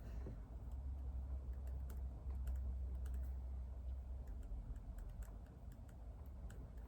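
Typing on a computer keyboard: a run of light, irregular keystroke clicks over a low steady hum.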